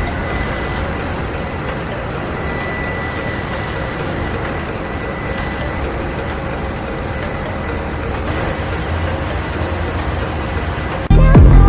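Ship's engine-room machinery running, a steady dense noise with a faint high whine over it. Loud music cuts in near the end.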